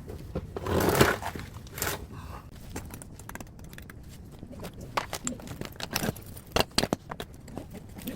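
Metal parts of a scrapped air-conditioner outdoor unit clanking and scraping as it is taken apart by hand: a louder scrape about a second in, then scattered sharp knocks and clinks, several close together near the two-thirds mark.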